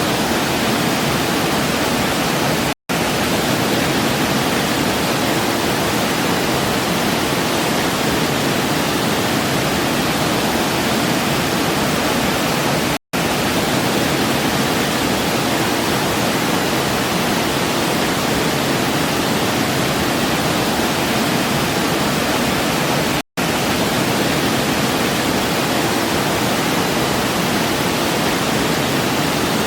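Waterfall: a steady, even rush of falling water. The sound cuts out for an instant three times, about ten seconds apart.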